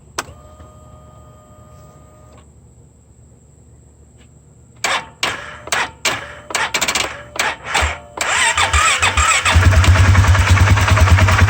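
Polaris Sportsman 570 ATV engine being started: a click and a faint steady hum, then a few seconds of short bursts as it cranks and sputters. It catches about eight seconds in and runs loud and rough, now that a bad fuel injector has been replaced.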